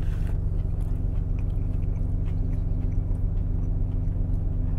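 A person chewing a mouthful of burger over the steady low hum of an idling truck engine.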